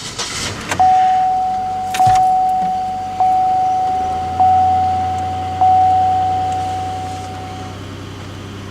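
Cold start of a 2008 Pontiac Grand Prix's 3800 Series III V6 at about 2 degrees: the engine starts in the first second and settles into a low, steady idle. Over it, the car's dashboard warning chime dings five times, about one every second and a bit, each ding fading.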